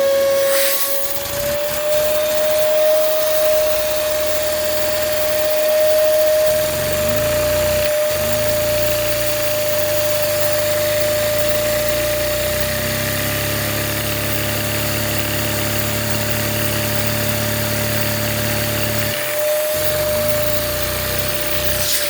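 A vacuum cleaner's motor whines steadily while it drives a Lego engine fitted with a big flywheel. The engine's lower mechanical running sound comes in about six seconds in, its pitch bending as it picks up speed, and drops away about three seconds before the end.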